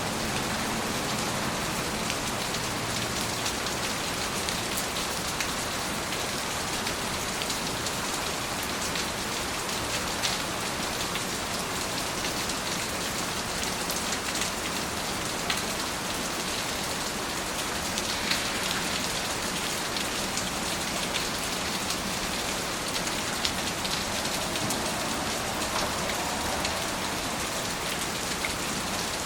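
Steady rain falling, an even hiss with many individual drops ticking out irregularly on a surface.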